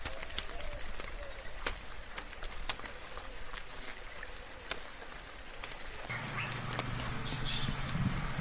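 Soft rain with scattered sharp drips and a few short high bird chirps in the first two seconds. About six seconds in, a low steady hum and a denser hiss join the rain.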